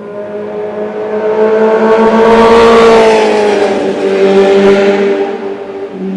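A motorcycle passing by: its engine grows louder to a peak about three seconds in, then its pitch drops as it moves away and fades.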